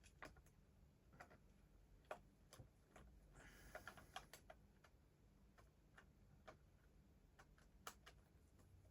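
Near silence with faint, scattered clicks and taps from small plastic toys and packaging being handled, and a brief rustle about three and a half seconds in.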